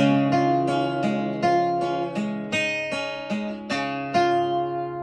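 Acoustic guitar picking and strumming a run of chords, two or three a second, the last one struck a little after four seconds in and left to ring out and fade.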